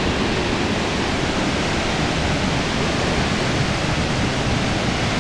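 Floodwater pouring over a reservoir dam's spillway as a massive roaring waterfall: a steady, unbroken rush of falling water.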